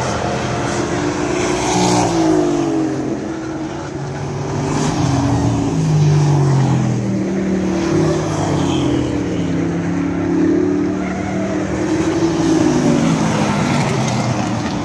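Several race trucks' engines running laps together, their pitch rising and falling in overlapping sweeps as they accelerate and lift around the track.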